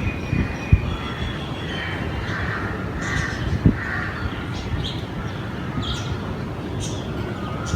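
Crows cawing repeatedly in short calls, over a steady low rumble.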